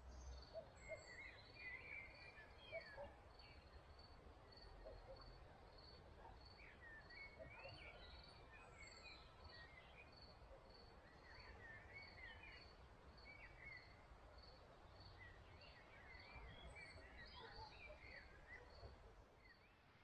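Faint wild birdsong: several birds' short warbling phrases and chirps, with one steady series of short high notes repeated about three every two seconds.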